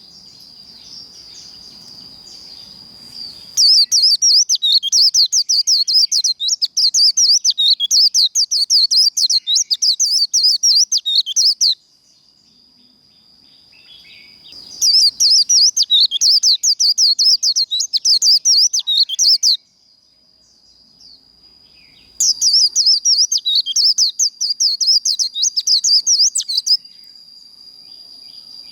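White-eye (vành khuyên) singing its rapid, high-pitched 'líu' warbling song in three long bursts that start and stop abruptly, with a thin steady high note held between the bursts.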